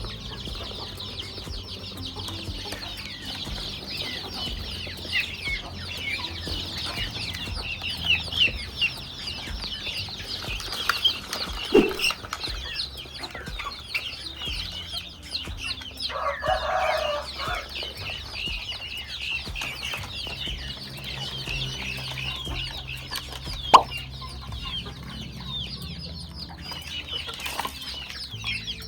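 Chickens clucking over a dense, continuous chatter of short high-pitched chirps. A louder call stands out about sixteen seconds in, and there are two sharp knocks, one near the middle and one about three quarters through.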